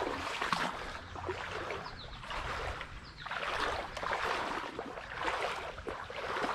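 Footsteps wading and splashing through shallow creek water, a swish of water with each stride, over the steady rush of the flowing stream.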